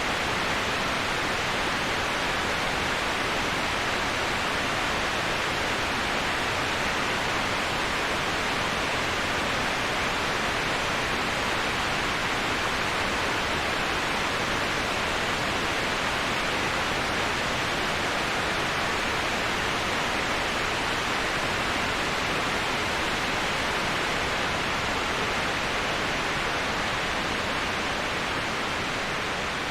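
Waterfall rushing: a steady, even hiss of falling water with no breaks, dipping slightly in level near the end.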